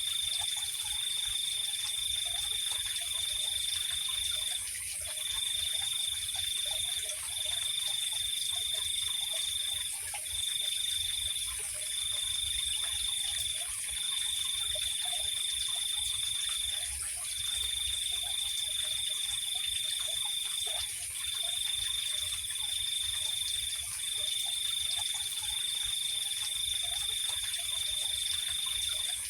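Night chorus of trilling insects: one high, steady trill runs in long stretches broken by short pauses every one to three seconds, over a constant higher-pitched hiss of other insects.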